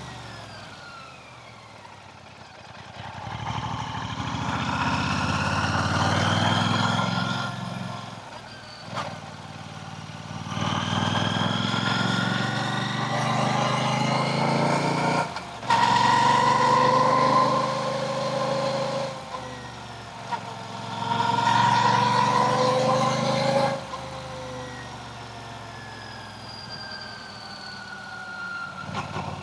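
Royal Enfield Classic 650's 648 cc parallel-twin engine pulling through the gears: its note rises in pitch several times, about two to four seconds each, with a drop at each gear change. Near the end it eases off to a lower, falling note.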